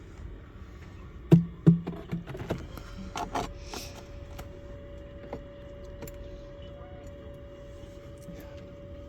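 A quick run of sharp wooden knocks and clicks as beehive frames and boxes are handled. About three seconds in, a steady single-pitched hum begins and holds.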